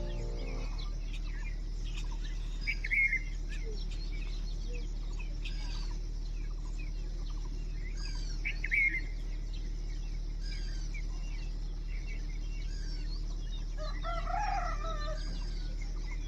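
Chickens and small birds outdoors: a rooster crows once about fourteen seconds in, with short louder clucks or calls twice before that, and small birds chirp throughout.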